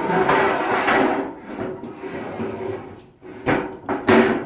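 Metal loading ramp of a motorcycle hitch carrier being slid back into its storage slot, with a long scrape that is loudest in the first second and a half. Two sharp knocks follow near the end.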